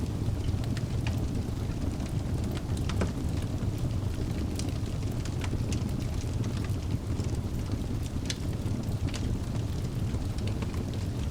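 Wood fire burning in a fireplace: a steady low rumble of the flames with scattered sharp crackles and pops of the burning logs.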